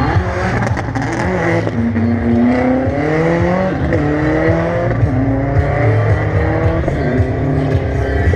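A racing engine accelerating hard: its pitch climbs, drops at a gear change, and climbs again several times.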